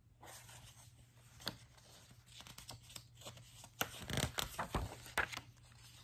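A page of a large picture book being handled and turned by hand: paper rustling, then a flurry of louder flaps and taps about four to five seconds in as the page comes over and lands.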